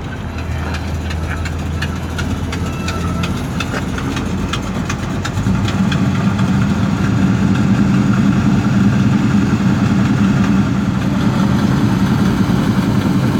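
Custom Plymouth Road Runner's V8 engine idling through its exhaust, growing louder about five seconds in and then holding steady. A scatter of sharp ticks sounds over it in the first few seconds.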